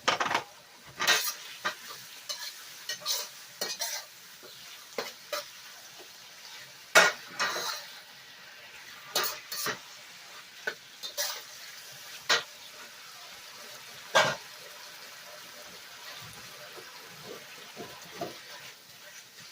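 A spatula scraping and knocking against the pan at irregular intervals as chicken and Chinese broccoli in oyster sauce are stir-fried, over a faint steady sizzle. The strokes thin out and grow softer over the last few seconds.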